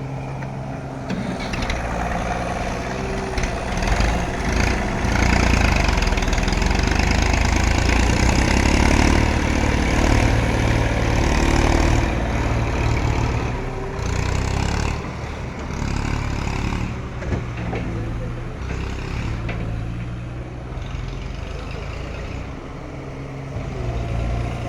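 Case IH JX40T tractor's diesel engine running steadily, growing louder for several seconds about four seconds in before easing back.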